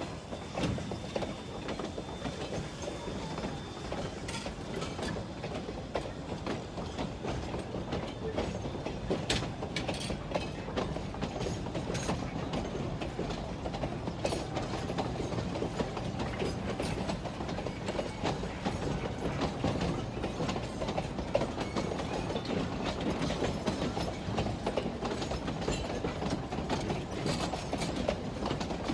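Narrow-gauge train rolling along the track, with a steady rumble of wheels and cars and constant sharp clicking and rattling.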